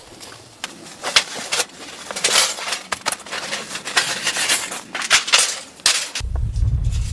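Irregular crunching and clicking noises, several a second. A little after six seconds they stop abruptly and a steady low rumble takes over.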